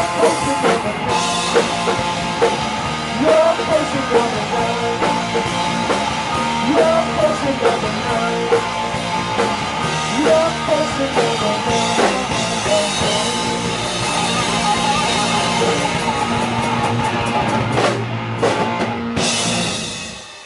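Live rock band playing with a drum kit and guitar, the song winding down and dropping away in the last second.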